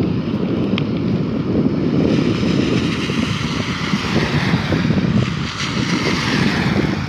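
Wind buffeting the microphone while riding, a steady loud rumble with a hiss of rushing air above it.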